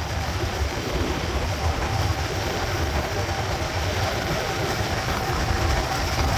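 Wind rushing over the microphone with the rolling noise of a mountain bike's tyres on pavement, a steady low rumble, while riding at speed.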